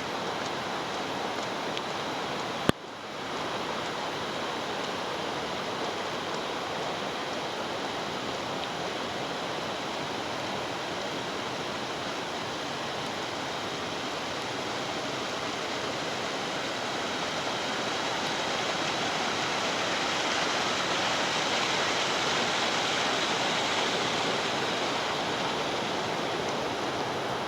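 Rushing stream water: a steady, even rush that grows somewhat louder past the middle. A single sharp click about three seconds in.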